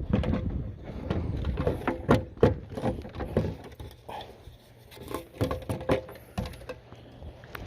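Irregular clicks and knocks of fishing gear being handled in a kayak, busiest in the first few seconds, with a faint low hum in the later part.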